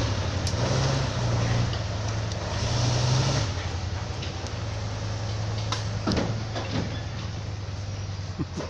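Heavy vehicle engine running steadily, pitching up a little for a couple of seconds early on and then settling, with a few scattered knocks and clatters.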